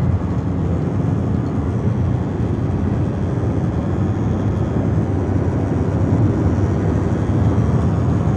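Cabin noise of a Chevrolet Corsa Classic cruising at about 70 km/h with the engine above 3,000 rpm: a steady engine and road rumble. Mixed in is the strange dashboard-area noise that shows up only at these revs, like a loose coin rattling.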